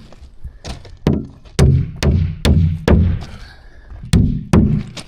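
Hammer driving a ring-shank flooring nail into plywood: a run of about six strikes, a pause of about a second, then three more, each hit ringing briefly.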